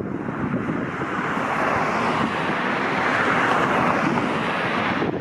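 A vehicle passing on the road: a rush of tyre and road noise that swells to its loudest about three seconds in and eases off.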